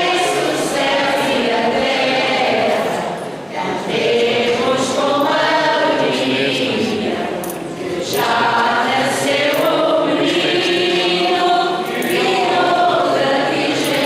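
A choir of voices singing a hymn together in long phrases, with two short breaks between phrases.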